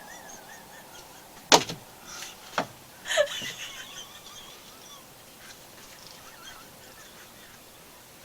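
A woman's stifled, breathy giggling in a few short bursts, with a sharp click about one and a half seconds in.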